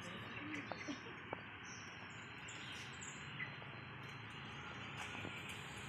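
Faint, steady street background noise with a few short, high bird chirps around the middle and a couple of light clicks about a second in.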